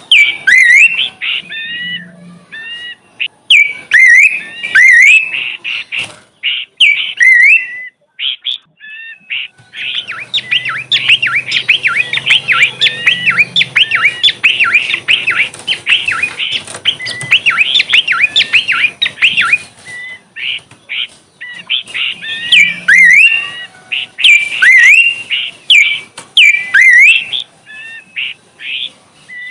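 A songbird singing loudly in short phrases of quick sliding whistled notes, breaking into a long rapid run of dense chattering notes from about ten to twenty seconds in, then back to short phrases.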